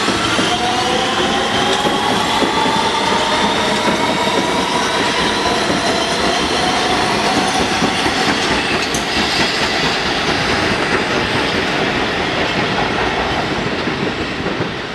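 New York City subway train accelerating, its electric traction motors whining up in pitch as several rising tones that level off, over the steady noise of the wheels running on the rails. The sound eases off near the end as the train draws away.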